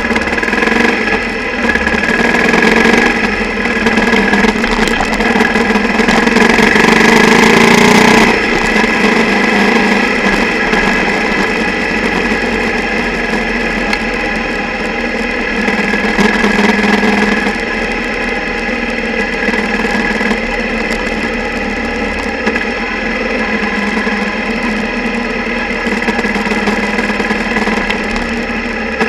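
Single-cylinder motorcycle engine running, picked up mostly as vibration through the bike-mounted camera housing, which rattles with the engine's shaking. The engine is louder for about the first eight seconds, then suddenly drops to a steadier, quieter run.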